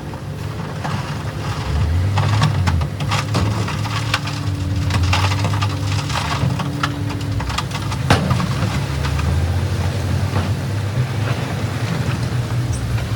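Diesel engine of a heavy earthmoving machine running under load, while rocks crack and clatter against each other as they are pushed and dumped, with one loud crack about eight seconds in.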